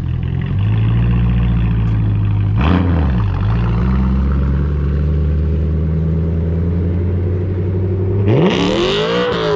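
A car engine idling loudly, blipped once briefly about three seconds in, then revved hard near the end, its pitch climbing and falling back.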